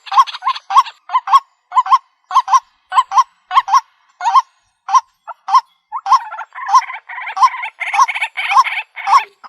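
White-breasted waterhen calling: a steady series of short, repeated 'kwak' notes, about two a second, thinning out midway and coming thicker again toward the end.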